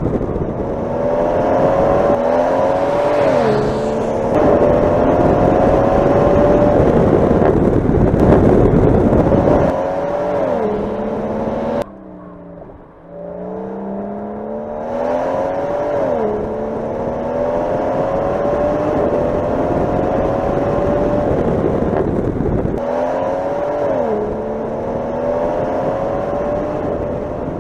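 BMW M760Li's twin-turbo V12 accelerating hard, its pitch climbing and dropping back at each upshift, over several edited runs with abrupt cuts between them. It goes quieter for a couple of seconds about twelve seconds in.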